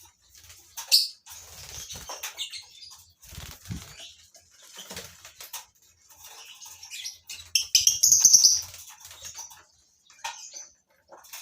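A colony of lovebirds chirping in short, high calls, with wing flapping and scratchy clicks; the loudest burst of calls comes about eight seconds in.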